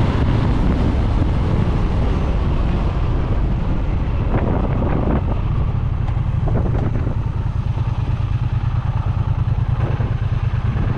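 Triumph Bonneville 1200cc parallel-twin engine running, heard with wind rushing over the microphone. About halfway through the wind noise drops away and the engine settles into an even, low, pulsing beat.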